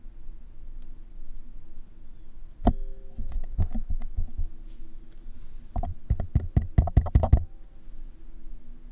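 Noise floor of a Rode shotgun microphone through camera preamps: a steady hiss with a low hum. It is broken by one sharp knock about three seconds in and a quick run of clicks and taps about six to seven seconds in.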